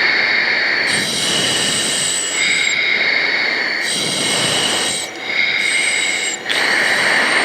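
T-6 Texan II turboprop cockpit noise with the engine at idle power on final approach: a steady rush overlaid by high-pitched whining tones that cut in and out every second or so.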